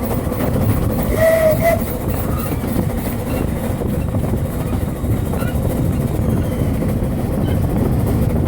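Narrow-gauge steam train running, a steady low rumble of wheels and carriages on the rails, with a short faint tone about a second in.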